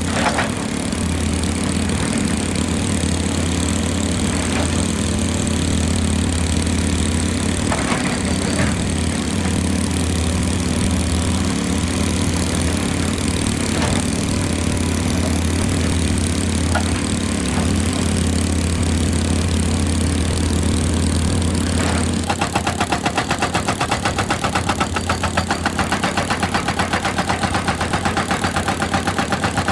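Excavator's diesel engine running steadily. About three-quarters of the way in, a fast, even pounding of several beats a second starts and carries on under the engine.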